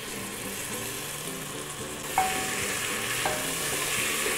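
Tomatoes, onions and spice paste sizzling in oil in an aluminium pressure cooker. From about two seconds in, a wooden spatula stirs the mix, knocking the pot so it gives a couple of short metallic rings.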